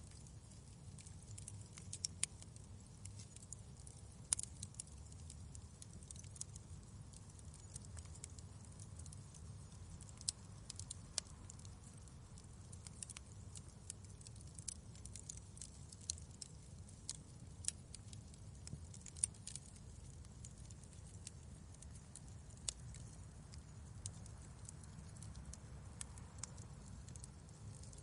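Wood fire crackling in a fireplace: irregular sharp pops and snaps, a few standing out, over a low steady rumble.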